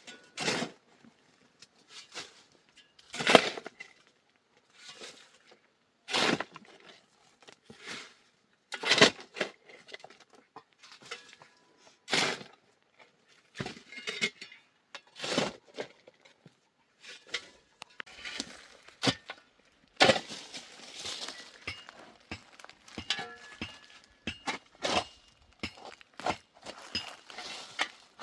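Repeated hard strikes, about one every three seconds, with lighter clinks and knocks between them.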